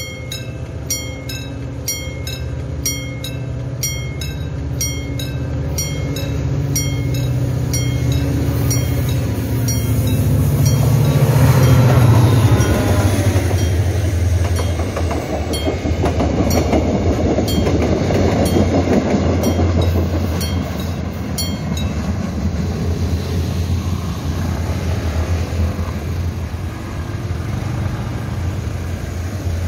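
A Mugunghwa-ho passenger train approaching a level crossing, passing close by and running on away, while the crossing's warning bell rings about twice a second. The rumble builds to its loudest about twelve seconds in. For several seconds after that the wheels clatter over the rail joints, then the train sound eases off.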